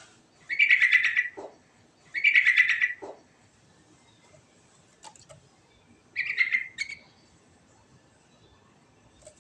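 Yellow-vented bulbul (trucukan) singing: three short bubbling phrases of about a second each, the first two close together, the third after a pause of about three seconds.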